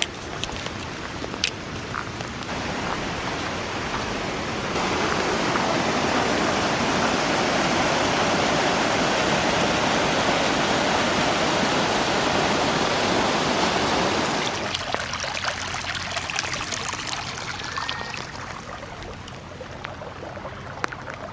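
Steady rush of flowing water, growing louder about five seconds in and easing back after about fourteen seconds.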